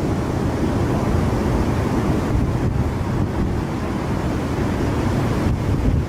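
Strong hurricane wind buffeting the microphone in a loud, steady low rumble, with surf underneath.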